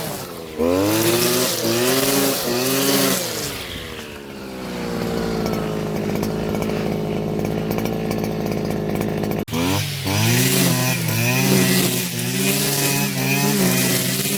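Gas string trimmer engine revving up and down in quick surges, then settling to a low idle for several seconds. After a sudden break about two-thirds of the way through, the quick surges resume.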